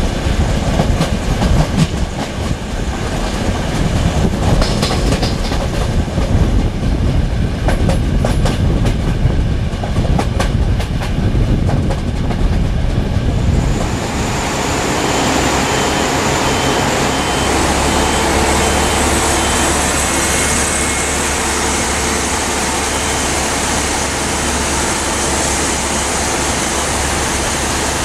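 Diesel passenger train approaching and passing close by: a rough low rumble with clicks of the wheels on the rail joints as it nears, then, about halfway through, a steadier rush of wheels on rail with a low hum and a faint high whine as the coaches go past.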